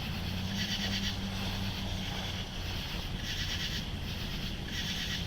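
Night insects calling in a pulsing chorus that swells in repeated bursts of about half a second to a second, over a steady low hum.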